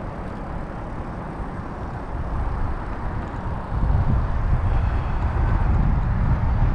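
Low rumble of wind and road noise while riding an e-bike, growing louder about four seconds in.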